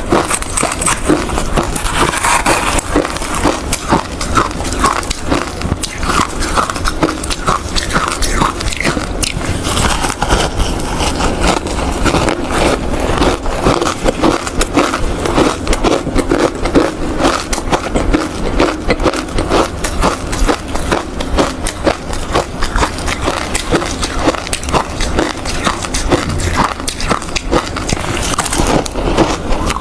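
A person crunching and chewing hard ice close to the microphone, with a steady run of dense, irregular crackling crunches.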